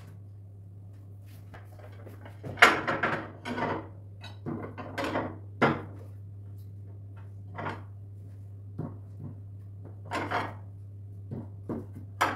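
Kitchen clatter as dishes and utensils are handled and set down: a run of knocks and clinks, busiest a few seconds in and again near the end, over a steady low hum.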